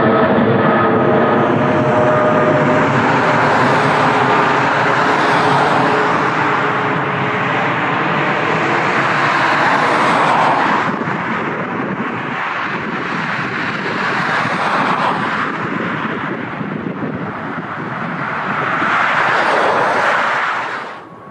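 Jet airliner engines roaring as the aircraft passes close by, with engine tones falling in pitch over the first few seconds. The roar swells again near the end, then cuts off suddenly.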